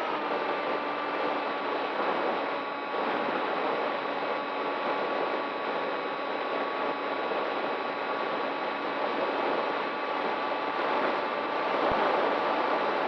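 Electric motor and propeller of an RC model plane running at a steady throttle: a constant whine over rushing air. The pitch dips slightly just at the start.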